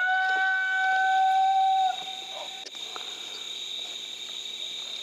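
A coyote howl sounded on a predator call: one long note that rises at the start, holds a steady pitch for about two seconds, then trails off faintly. A single sharp click follows shortly after.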